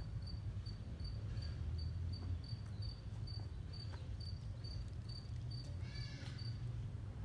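A cricket chirping steadily, short high chirps about two to three a second, over a low steady rumble. A brief separate call sounds about six seconds in.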